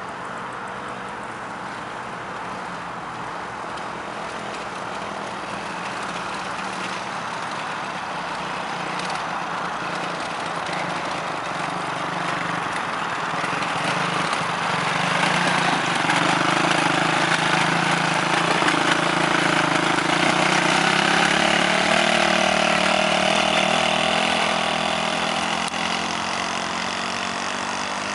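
Quad bike engine running at a steady pitch. It grows louder through the first half, is loudest in the second half, and eases off a little near the end.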